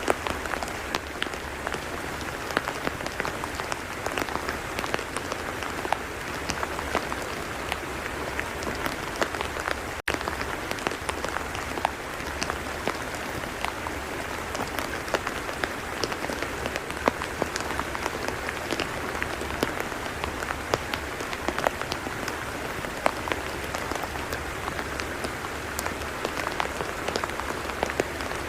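Steady rain falling on a tidal mudflat: an even hiss dotted with many separate small drop ticks, with a momentary dropout about ten seconds in.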